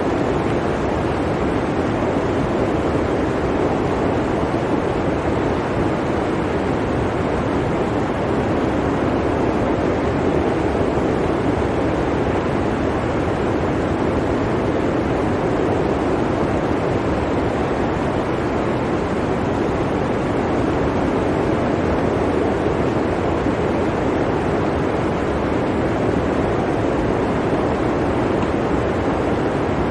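Blizzard wind blowing steadily, a dense, even rushing noise with no gusts or breaks.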